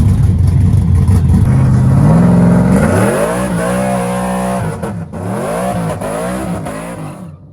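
A loud street-race vehicle's engine, rumbling low at first and then revving up and down several times before cutting off suddenly near the end.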